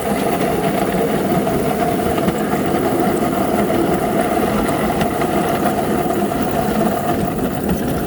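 Small engine running steadily at an even idle-like speed, most likely the motor of a small ride-on railroad locomotive.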